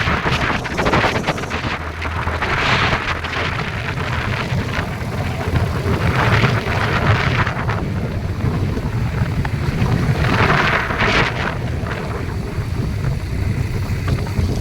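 Steady low rumble of a moving vehicle, with wind buffeting the microphone in irregular gusts.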